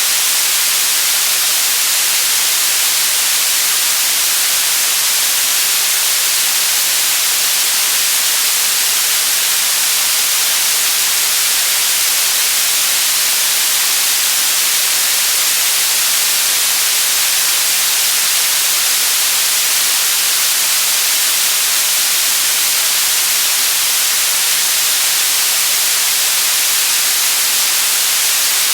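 Generated white noise: a loud, steady, even hiss that never changes, strongest in the high end.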